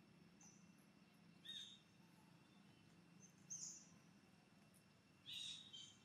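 A few faint, short, high-pitched bird chirps over steady low background noise, coming about a second and a half, three and a half and five seconds in.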